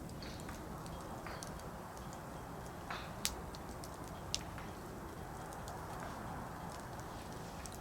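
Firewood burning in a campfire: a steady low rush of flame with scattered sharp crackles and pops, the loudest a little over three seconds in and another about a second later.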